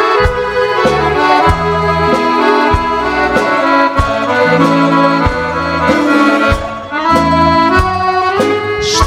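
Accordion playing a Serbian folk tune over a steady bass beat, an instrumental passage without singing; a voice comes in right at the end.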